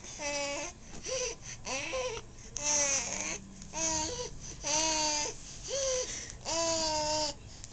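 Baby babbling: a string of about eight short, high-pitched coos and vocal sounds, each under a second, with brief pauses between them.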